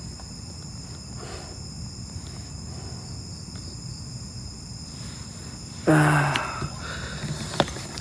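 Steady chorus of crickets and other insects, holding high, unbroken trills. About six seconds in comes a brief, louder, voice-like pitched sound, and near the end a single sharp click.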